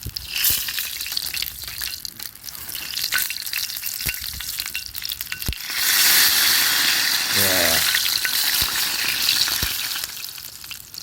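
Meat sizzling on a grill net over a campfire, with scattered pops and spits of fat. The sizzling swells louder about six seconds in and eases off near the end.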